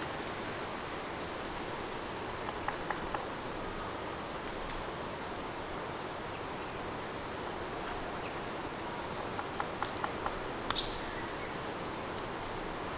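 Steady rain ambience, an even hiss, with faint high chirping twice over it and a few small clicks: a short cluster about three seconds in and another near eleven seconds.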